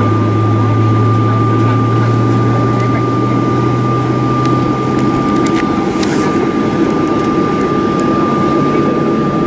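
Cabin noise of a Boeing 737-800 on the ground before takeoff: the steady rush of the engines and air-conditioning, with a constant high whine. A strong low hum fades out a little after five seconds in.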